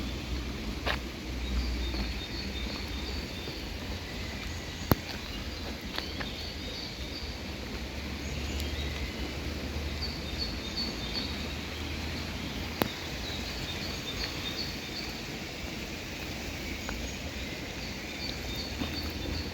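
Steady rain hiss with a few sharp drop-like clicks. Short runs of rapid, high chirping come and go several times over it.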